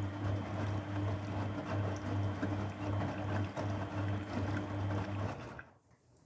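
Grundig washing machine running: a steady, slightly pulsing hum with water rushing through it, which cuts out about five and a half seconds in.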